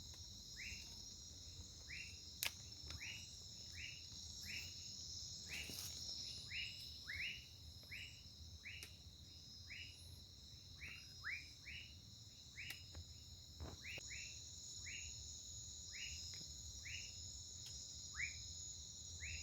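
Faint night chorus of crickets and other insects, a steady high-pitched buzz, with a short falling chirp repeated roughly every half-second to second throughout. A few faint knocks can be heard.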